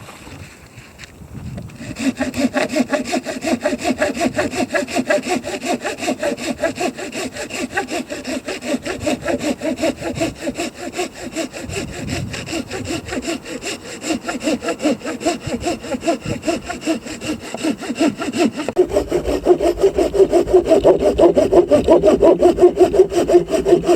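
Wood being sawn by hand in quick, even back-and-forth strokes. The sawing starts about two seconds in and gets louder near the end.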